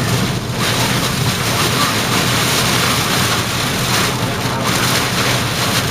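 Steady, loud rushing of wind and vehicle noise, with a low hum underneath.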